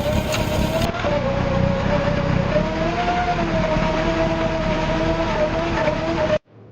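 Snow-clearing machine's engine running steadily, with a wavering whine over a low rumble; it cuts off abruptly near the end.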